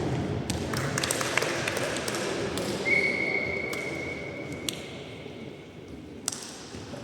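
Sharp taps and thuds of a volleyball being hit and landing in a hall that echoes, with shuffling on the court. About three seconds in, a single high ringing tone starts and fades away over a few seconds.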